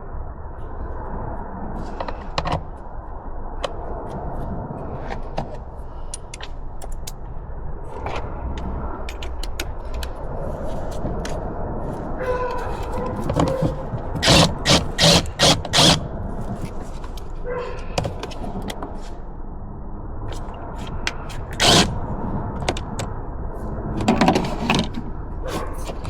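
Scattered metallic clicks, scrapes and knocks of hand tools at work, with four loud knocks in quick succession about halfway through, another a few seconds later, and a cluster near the end.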